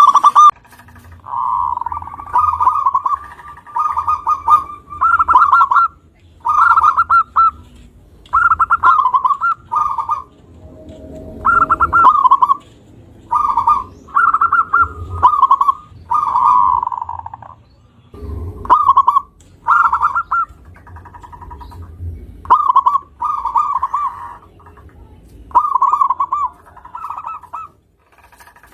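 Zebra dove (perkutut) cooing: a long series of short phrases of rapid staccato coos, one about every second or so.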